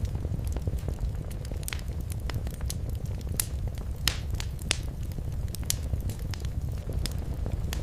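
Wood fire crackling in a fireplace: irregular sharp pops and snaps over a steady low rumble of the flames, with a few louder pops near the middle.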